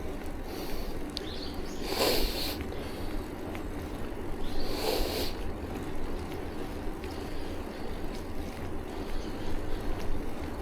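Wind buffeting an action camera's microphone with road rumble while riding a bicycle, with two brief louder whooshes about two and five seconds in.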